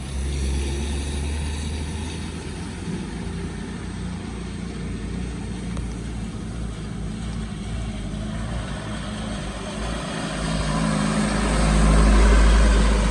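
Motor vehicle engine running steadily, swelling louder with a deep rumble from about ten seconds in as the vehicle comes closer.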